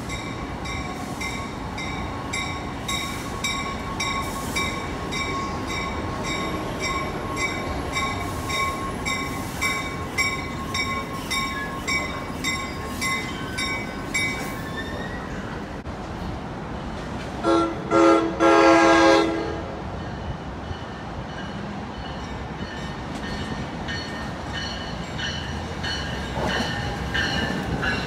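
NJ Transit commuter train passing through the station. Its bell rings in a steady rhythm for about the first fifteen seconds. Then the horn sounds three times, two short blasts and a longer one, over the rumble of the passing cars.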